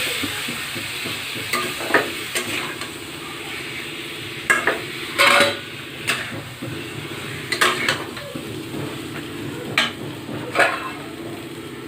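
Marinated chicken and spices frying in a kadai with a steady sizzle while a spatula stirs and scrapes through them, knocking against the pan several times.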